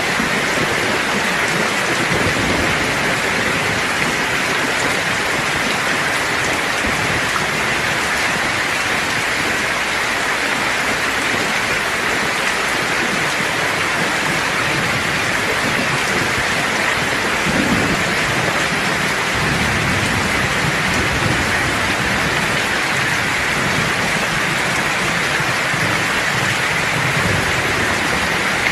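Steady heavy rainfall, an even hiss of drops on surfaces, with low rolls of distant thunder rumbling beneath it from a little past the middle.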